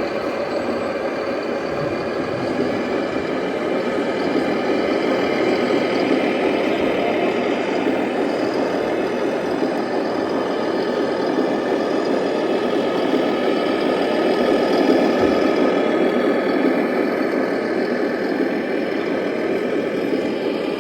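Electronic sound module of a scale RC truck playing a steady diesel truck engine sound, running at idle and light throttle.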